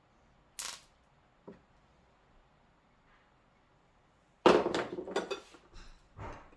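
Hard objects being handled on a workbench: a brief scrape and a light knock, then a quick run of clattering knocks and clinks, the loudest about four and a half seconds in, and two more knocks near the end.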